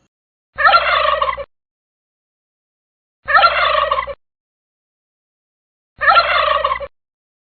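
Wild turkey gobbling: three gobbles, each just under a second long, about two and a half seconds apart.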